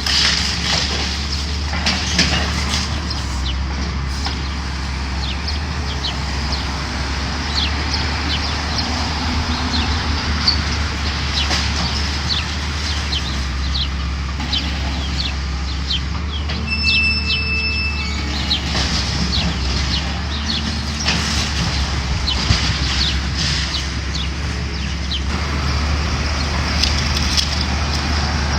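Heavy demolition machinery's diesel engine running steadily, with many short sharp crackles and clanks of building material being broken up and shifted.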